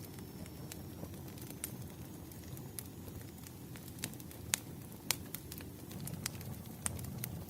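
Campfire burning, a steady low rumble of flames with irregular sharp wood crackles and pops, the loudest about halfway through.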